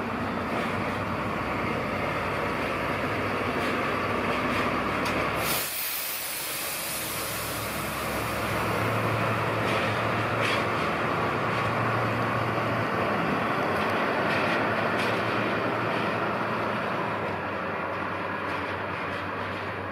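Freight train shunting: an EH200 electric locomotive running with its tank wagons. About five and a half seconds in there is a sudden hiss of released compressed air, which fades over the next few seconds.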